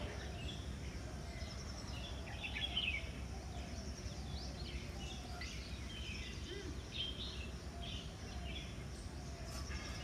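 Several birds chirping and calling in short scattered bursts over a steady low background rumble.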